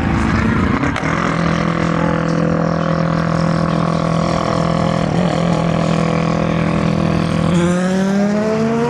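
A Le Mans endurance race car's engine holding a steady note for several seconds, then rising in pitch as it accelerates near the end.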